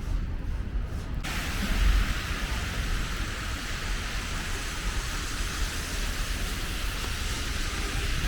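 City street noise in a snowstorm: a steady low rumble of traffic and wind, joined about a second in by a steady hiss that starts abruptly and carries on.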